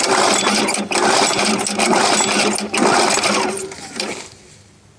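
Petrol lawn mower engine running with a rapid mechanical clatter and a steady hum while spilling oil, then cutting out about four seconds in.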